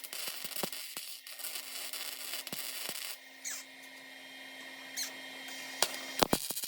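Welding on car-body sheet metal: a crackling hiss that eases off about three seconds in, over a steady low hum, with a few sharp clicks near the end.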